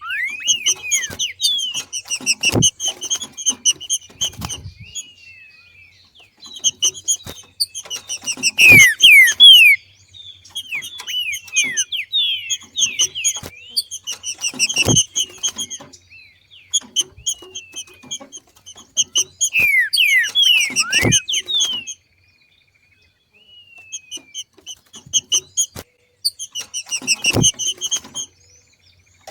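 A female trinca-ferro (green-winged saltator) giving its 'macheado' call: bouts of rapid, high chattering notes mixed with downward-slurred whistles, broken by short pauses. Sharp knocks sound about every six seconds, and there is a brief silence a little after two-thirds of the way through.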